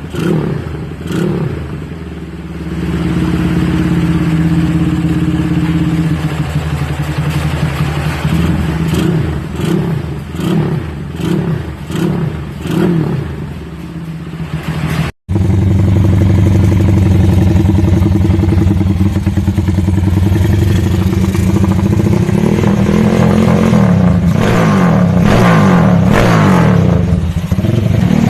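Motorcycle engine through an aftermarket Pekajaman muffler, revved in repeated throttle blips, then after a brief break about halfway held at steadier raised revs with a few more blips near the end.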